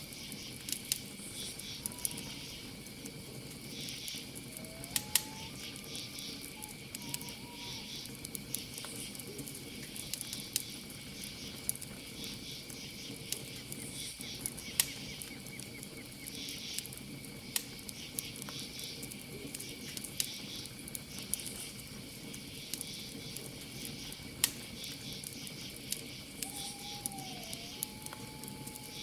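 Campfire crackling with frequent sharp pops, over a steady high trill of crickets and pulsing insect chirps. A few soft hooting bird calls come about 2 s in, around 5 to 7 s, and near the end.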